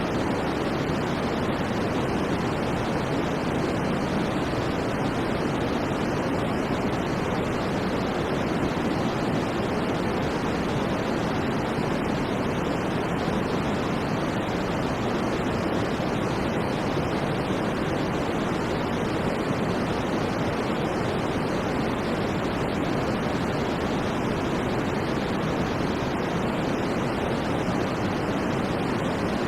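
Steady white noise for sleep: an even, unchanging hiss with most of its weight in the low and middle range and dull at the top.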